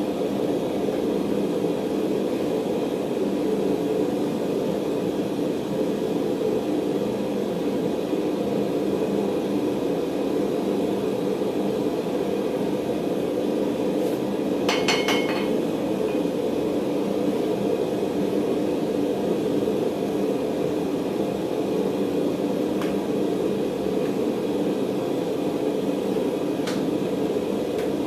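Forge running with a steady, low rushing noise while a round mild-steel bar heats for another pass. A short run of light, ringing metallic clinks comes about halfway through, and two faint ticks come near the end.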